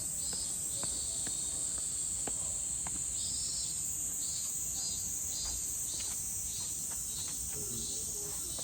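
Summer insects droning: a steady high-pitched hiss with a second insect's pulsed chirp repeating about twice a second.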